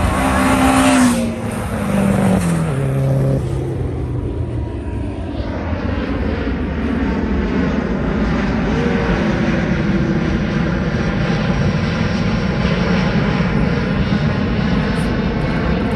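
Car engines running close by: a loud car goes past about a second in, its engine note dropping in steps, then a steady rumble of running engines carries on.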